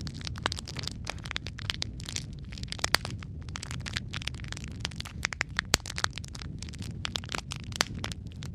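Wood fire crackling in a fireplace: a steady low rumble of flame under dense irregular snaps and pops, a few louder pops standing out.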